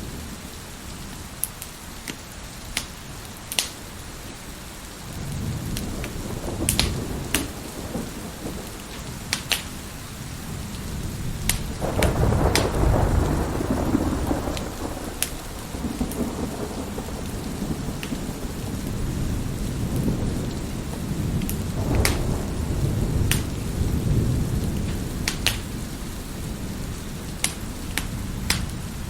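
Wood fire crackling with sharp scattered pops, over steady heavy rain and rolling thunder. The thunder rumbles up loudest near the middle.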